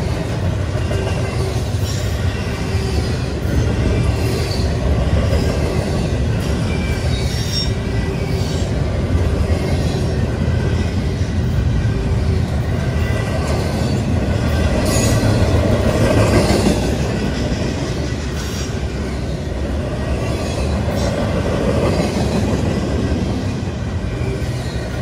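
Norfolk Southern double-stack intermodal train's well cars rolling past: a steady, loud rumble of steel wheels on rail, with brief high wheel squeals now and then.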